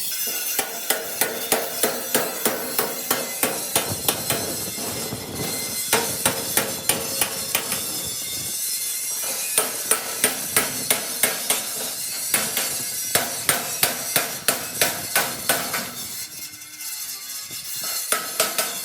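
Hammer striking sheet steel in runs of quick, evenly spaced blows, about three a second, with short pauses between the runs.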